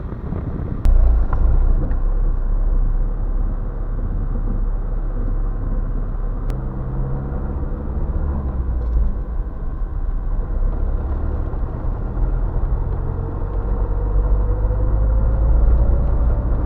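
Car engine running with a heavy low rumble that jumps up about a second in, its note climbing slowly near the end as the car picks up speed.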